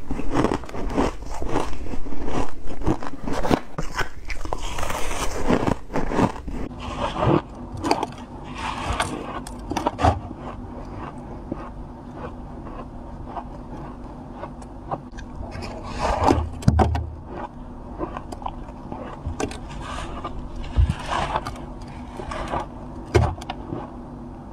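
Close-up biting and crunching of freezer frost. The crunches come thick and fast for the first several seconds, then thin out into separate bites.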